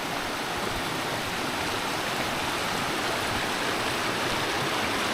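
Steady rushing of a forest stream flowing close by.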